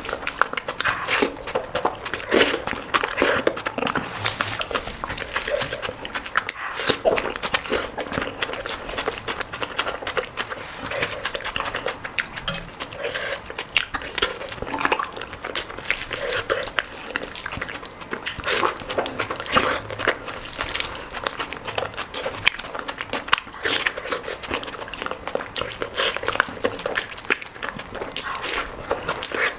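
A person eating close to the microphone: wet chewing and mouth smacks, many short irregular clicks in quick succession.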